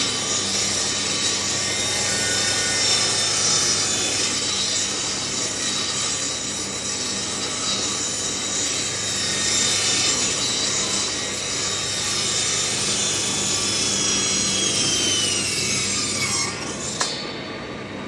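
Electric power tool cutting or sanding the willow of a cricket bat during a handle replacement: a steady high whine over rasping on the wood. Near the end the motor winds down with a falling whine and stops.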